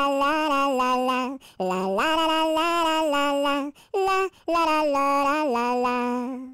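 A single high voice singing a wordless 'la la la' melody without accompaniment, in phrases with short breaths between them, stopping suddenly near the end.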